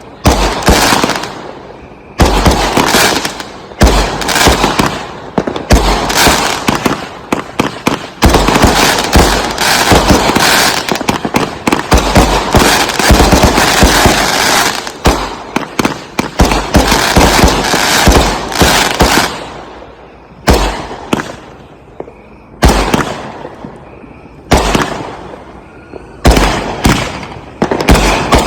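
Consumer fireworks cakes firing aerial shells in rapid succession, a dense barrage of bangs through the middle, then single shots every second or two near the end.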